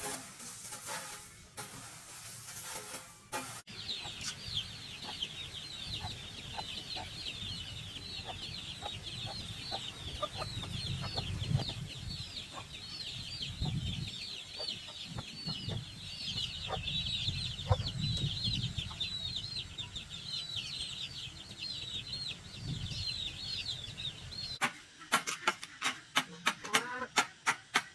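A brood of chicks cheeping continuously, many short high peeps overlapping, with low clucking underneath. Near the end the cheeping stops and a fast, even run of sharp knocks begins, about four or five a second.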